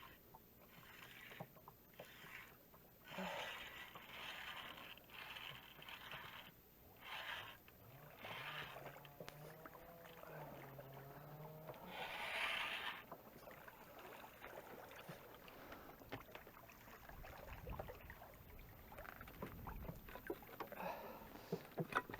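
Faint, intermittent rustling and scraping of an angler handling gear and a freshly caught small pike in a boat. Low wind rumble on the microphone in the second half.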